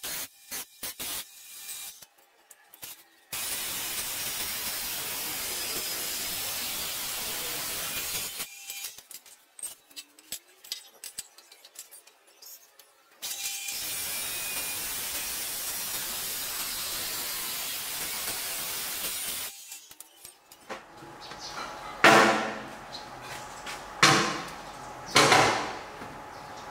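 Steel pipe being cut by a power cutting tool in two long spells of steady hissing noise, with short scrapes and handling noise between them. Near the end come three loud sharp blows on metal, about a second apart, each with a short ringing.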